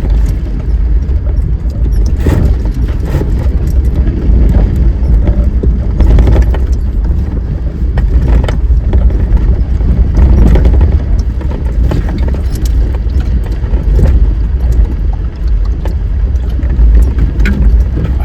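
Vehicle driving along a dirt trail: a steady low rumble, with scattered knocks and rattles from bumps.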